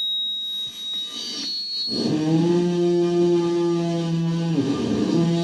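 Vocals through a microphone run into a death metal distortion pedal and a Boss Metal Zone pedal: a steady high whine for about the first second, then about two seconds in a loud, distorted held drone that breaks off briefly near the end and comes back.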